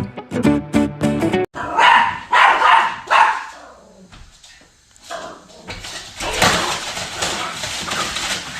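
Plucked-string background music breaks off abruptly about a second and a half in. A dog then barks in a few loud bursts, followed after a short lull by a longer, denser stretch of dog vocalising.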